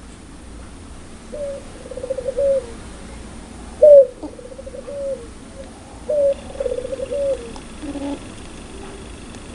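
Puter pelung dove (domestic Barbary dove) giving its laughing call three times: each call is a short rising note followed by a fast rattling trill that drops off at the end.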